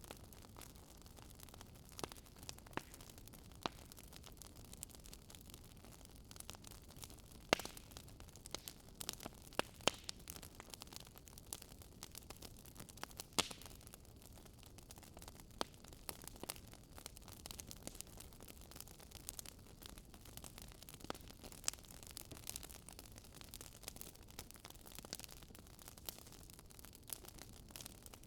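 Wood fire crackling and popping: irregular sharp pops over a faint steady hiss, a few louder snaps among many small ones.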